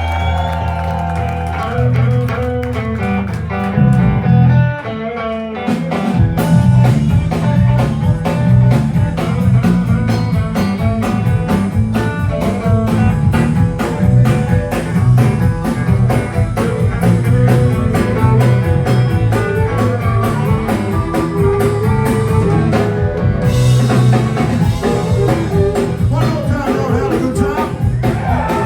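Live electric blues band playing an instrumental passage. A held chord rings for the first few seconds, then drums and bass start a fast, driving groove about six seconds in, with electric guitar over it.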